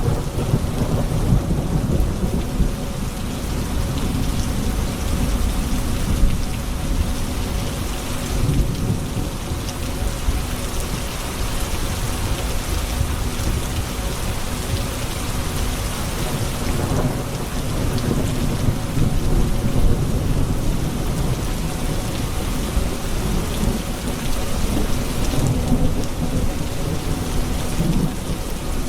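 Thunderstorm: steady heavy rain falling on hard surfaces with continuous low rumbling thunder.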